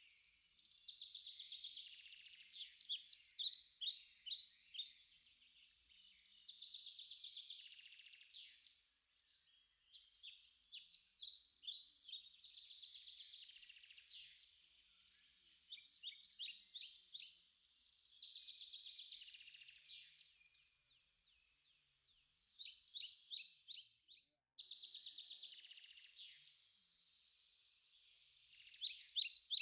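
Birds chirping and trilling in repeated short phrases of rapid high notes.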